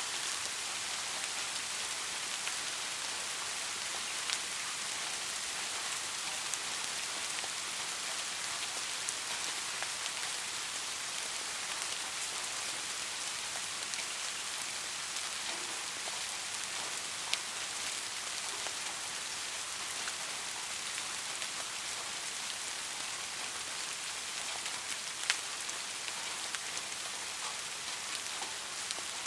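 Steady rain falling, a continuous hiss of drops with scattered louder single drops striking nearby, a few of them standing out.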